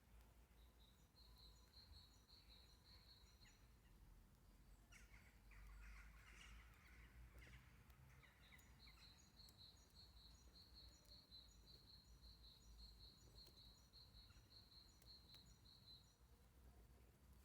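A songbird repeating quick, evenly spaced high notes in two runs, a short one near the start and a longer one in the second half. In between comes a brief rougher, lower sound.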